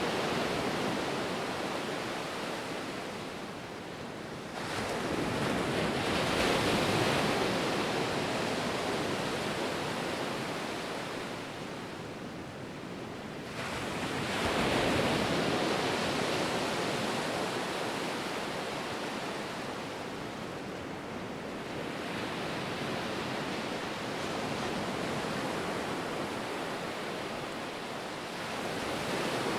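Ocean waves breaking on a shore: a steady wash of surf with two bigger waves swelling in, about 5 and 14 seconds in, then settling back.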